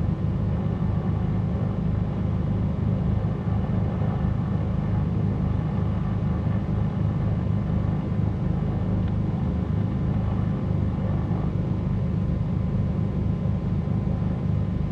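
Cessna 310Q's twin piston engines running at low power, a steady low drone with no change.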